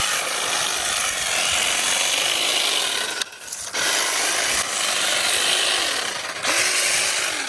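A hand tool scraping through loose track dirt in long strokes during track maintenance, with a short pause about three seconds in.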